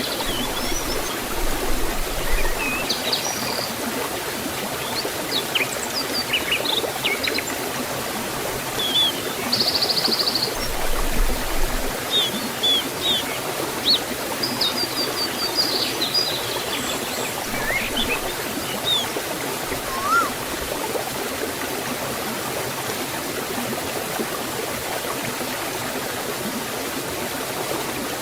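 Water rushing steadily down a forest waterfall and stream. Small birds chirp in short high calls over it, including a brief buzzy trill about ten seconds in, until about two-thirds of the way through.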